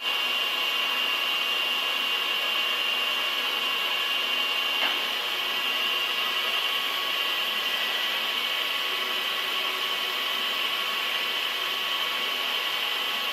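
A machine tool running steadily, with a constant high whine over an even hiss. There is a single small tick about five seconds in.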